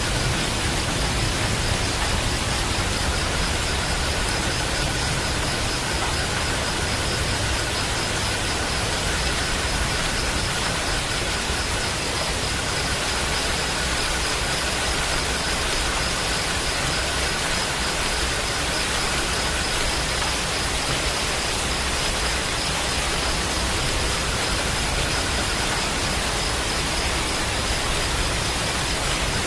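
Steady rain: a dense, even hiss with no individual drops or thunder standing out, and a faint steady high tone running through it.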